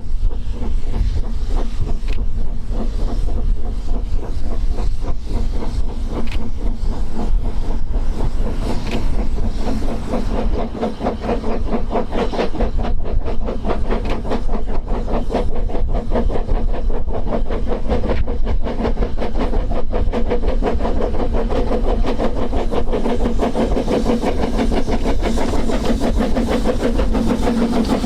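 A narrow-gauge steam train running, with a steady rapid rhythm of beats and a droning tone that grows stronger near the end.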